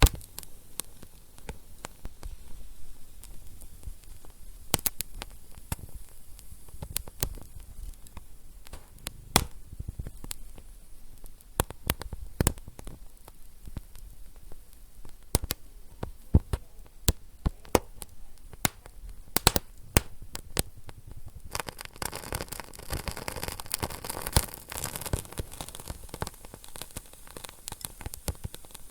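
Wood fire in a fireplace crackling, with sharp irregular pops and snaps over a low hiss. About two-thirds of the way through, the hiss thickens into a steadier hissing rush.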